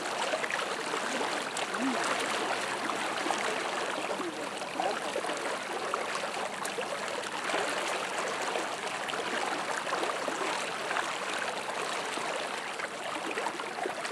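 Fast-flowing floodwater of a swollen river rushing and splashing in a steady, even wash.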